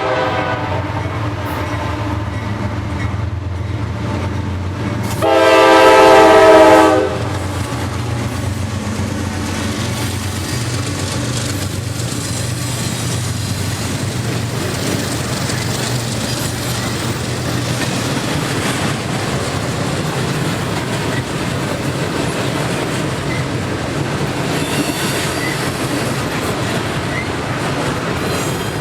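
Freight train locomotive horn sounding one loud blast about five seconds in, just after the tail of an earlier blast. Then the train rolls by with steady wheel-on-rail noise, clickety-clack and a low locomotive hum.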